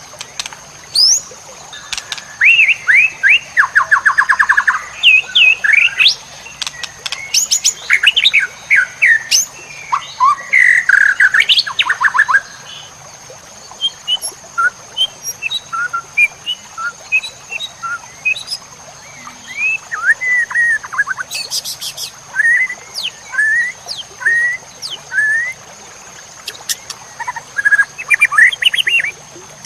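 White-rumped shama (murai batu) singing a long, varied song of loud whistles, quick slurred notes and rapid trills, with short gaps between phrases. A steady high-pitched tone runs underneath throughout.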